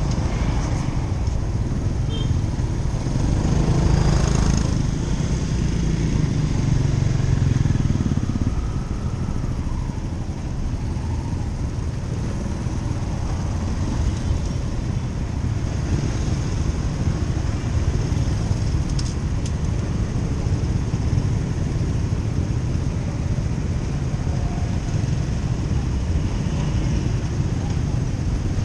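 Motorcycle running on the road, a steady engine rumble with road and wind noise, a little louder from about three to eight seconds in.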